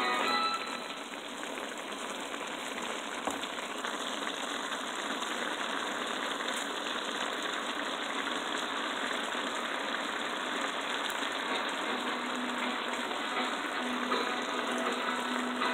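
Okra, spinach and chicken stir fry sizzling in a pan: a steady, even hiss.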